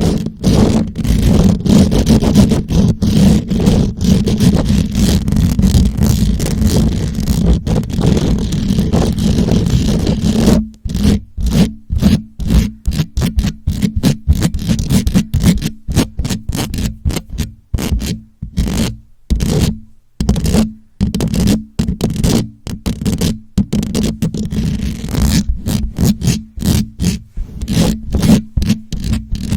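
Fingers scratching and rubbing directly on a microphone, loud and mostly low and muffled: a steady flurry of scratches at first, then, about ten seconds in, separate quick strokes with brief pauses between them.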